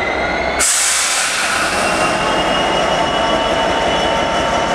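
DB Schenker Class 66 diesel locomotive and its train moving slowly through the station, with wheel squeal heard as several steady high-pitched tones. About half a second in the sound turns suddenly noisier and then stays that way.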